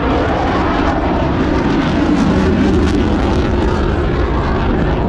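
Jet aircraft passing overhead: a loud, steady engine noise that swells about two to three seconds in.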